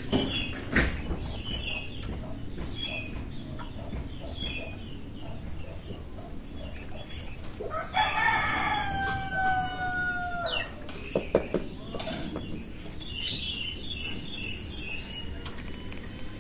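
A rooster crows once, about eight seconds in, in one long call of roughly two and a half seconds, falling slightly at the end. Small birds chirp repeatedly around it, and there are a few sharp knocks.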